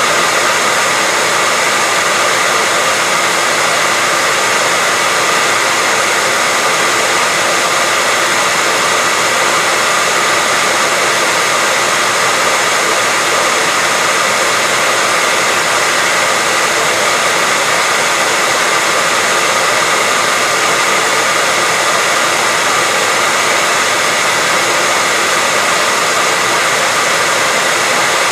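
Hair dryer running steadily, an even, unbroken rush of air with a faint whine from its motor and fan.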